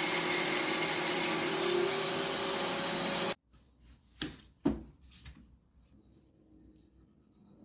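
A workshop electric motor running steadily with a strong hiss, cut off abruptly a little over three seconds in. Then two sharp knocks about half a second apart, and near quiet.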